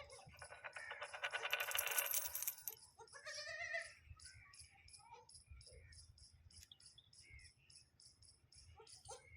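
Goats bleating: a loud, coarse, wavering bleat lasting about two and a half seconds, then a shorter, higher call, then scattered faint calls. An even high-pitched ticking, about three to four ticks a second, runs underneath.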